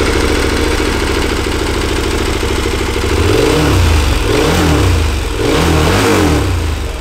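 KTM 1290 Super Adventure T's 1301 cc V-twin on its stock exhaust, freshly started and idling. In the second half the throttle is blipped three times, each rev rising and falling back to idle.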